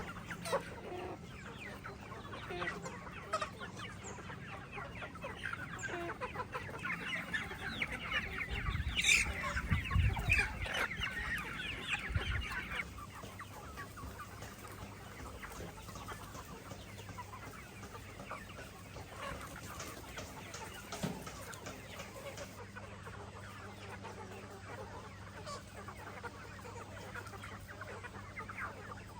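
A flock of chickens clucking and chirping at feeding time, many birds calling over each other, busiest and loudest from about seven to thirteen seconds in. A few dull knocks come around nine to ten seconds in.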